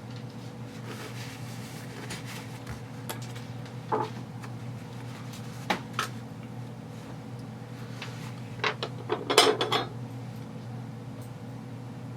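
Small metal and plastic airsoft gearbox parts clicking and clinking as they are handled during a teardown, a few scattered clicks and then a quick run of clatter about nine seconds in, over a steady low hum.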